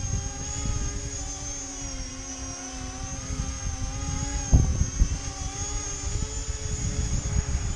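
The electric motors and propellers of an E-flite Convergence VTOL hovering, whining with a pitch that wavers as they speed up and slow down to hold it steady against strong gusts. Wind buffets the microphone throughout, with a sharp bump about four and a half seconds in.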